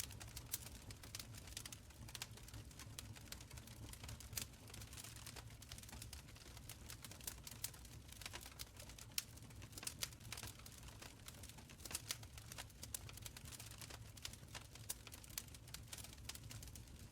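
Wood fire burning in a stone fireplace, crackling with many small irregular pops over a low rumble.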